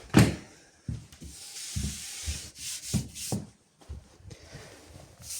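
A sharp knock on the fireplace surround's panels near the start, then rubbing across the tabletop's surface, with a few soft bumps.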